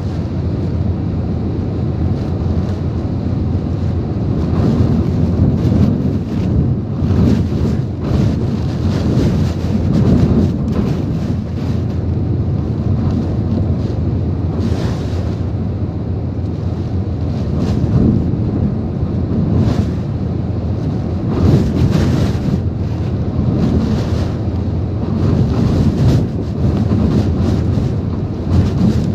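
Typhoon-force wind blowing hard in rising and falling gusts, with heavy wind buffeting on the microphone.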